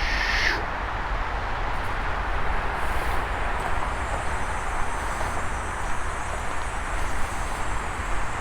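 Outdoor ambience: a steady low rumble and hiss, with a short high sound right at the start and a thin, high insect drone coming in a few seconds in.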